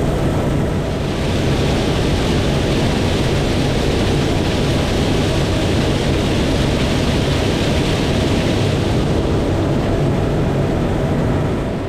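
Large diesel harvest machinery working in maize: a steady low engine hum under loud, even mechanical and rushing noise. The noise cuts off suddenly at the very end.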